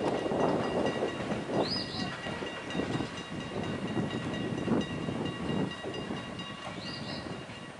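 Freight train cars rolling past, wheels rumbling and clattering irregularly on the rails. A steady high ringing tone runs throughout.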